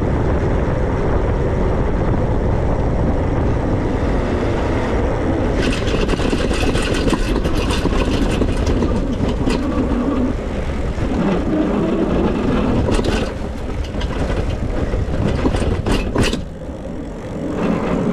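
Steady wind and road noise on the microphone of a moving e-bike. Runs of rattling clicks come in about six seconds in and again around thirteen seconds.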